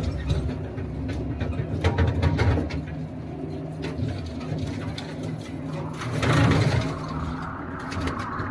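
TYM compact tractor's diesel engine running steadily, with scattered knocks and clatter and a brief rise in level about six seconds in.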